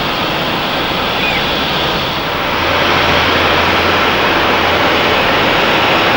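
Jet airliner's engines, a loud, steady rushing roar that gets a little louder about two and a half seconds in.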